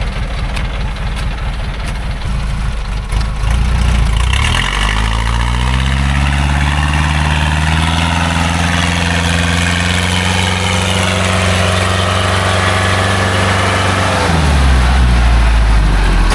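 Engine of a small logging truck loaded with acacia wood, idling and then revving up about four seconds in. It holds at high revs for about ten seconds, then drops back to idle near the end.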